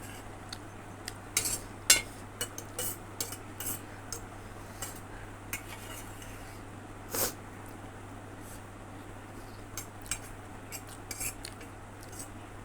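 Eating instant noodles: irregular light clicks and clinks of cutlery against a bowl, with a few louder knocks, over a low steady hum.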